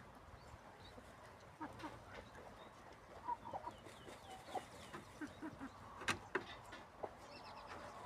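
Chickens clucking softly now and then, with a few sharp clicks, the loudest about six seconds in.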